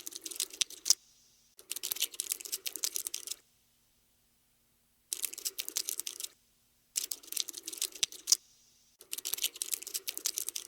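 Cockroach scuttling sound effect: bursts of rapid, dry little clicks like tiny legs on a hard surface. There are five bursts of one to two seconds each, with short silent gaps between.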